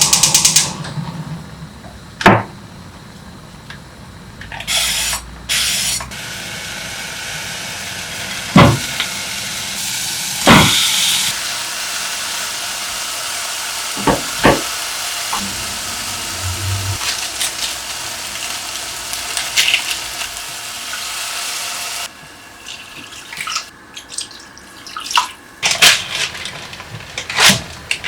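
Water running steadily from a kitchen tap for a long stretch, with scattered sharp knocks and clicks before, during and after it.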